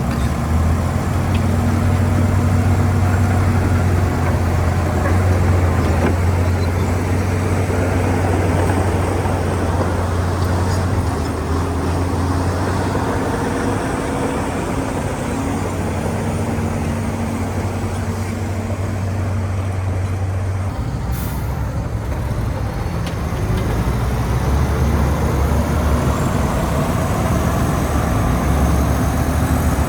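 Heavy diesel earthmoving machinery running under load with a steady low engine drone. The engine note shifts lower about two-thirds of the way through, and a brief high hiss comes at the same time.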